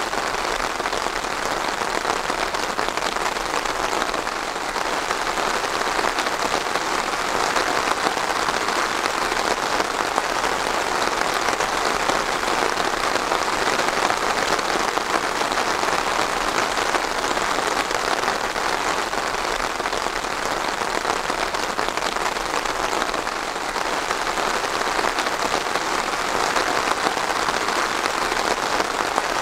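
Steady rain falling and pattering on a surface, an even hiss with fine crackle of drops.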